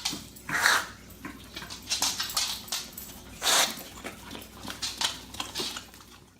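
A dog making a series of short, breathy noises with no clear barking pitch. The two loudest come under a second in and about three and a half seconds in.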